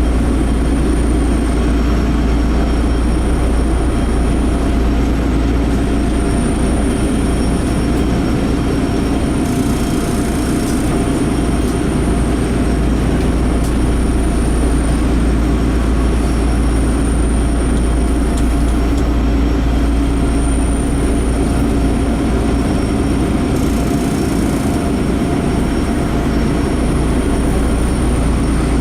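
Enshu Railway 30-series electric train running, heard from inside the car: a steady rumble of wheels and running gear, with a faint high thin tone that comes and goes and two brief bursts of hiss about a third and four-fifths of the way through.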